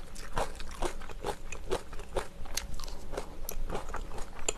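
Close-miked chewing of food: a rapid, irregular run of small crisp crunches and wet clicks from the mouth.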